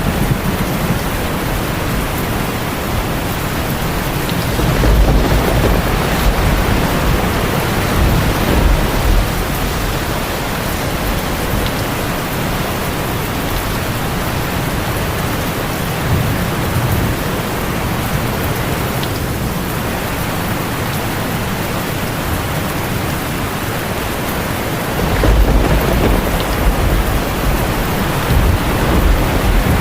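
Heavy rain drumming steadily on a tin roof, with rolls of thunder rumbling low about five seconds in and again near the end.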